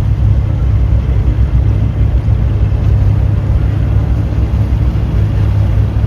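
Sea Ray 260 Sundeck's 300 hp Mercury engine running underway, a steady low rumble with water and air noise over it.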